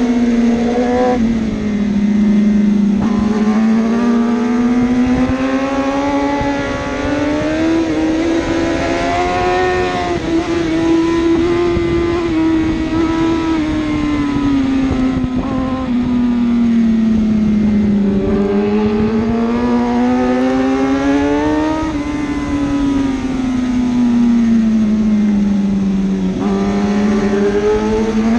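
1000cc superbike engine running hard and continuously, its pitch climbing and falling over several seconds at a time as the revs rise and drop, about three times.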